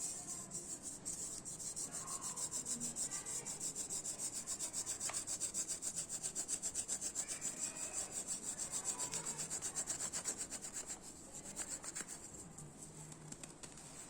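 Dry cement crumbling under rubbing hands: a rapid, even, gritty rubbing at about five strokes a second that grows weaker near the end.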